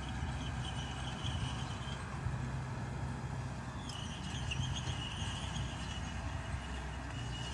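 Mitsubishi BD2G bulldozer's diesel engine running steadily under load. A thin, high squeal comes and goes over it, dropping out for about two seconds midway.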